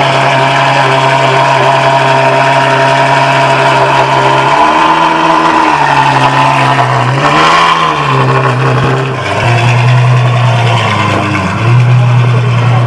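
Ferrari F12-based Novitec N-Largo S's 6.3-litre V12 running at steady raised revs, then blipped up and down a couple of times before settling back to a steady note.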